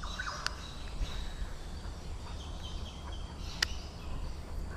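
Faint birdsong over a steady low rumble, with a sharp click about half a second in and a louder one after about three and a half seconds.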